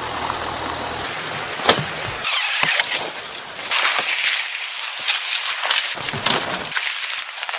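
Rain falling steadily, with many separate drops ticking on a nearby surface. A low hum sits under it for about the first second, then stops.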